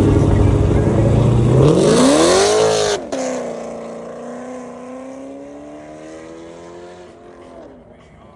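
A car engine revs up hard with a rising note about two seconds in, then the pitch drops sharply. A steadier exhaust note follows and fades away as the car pulls off.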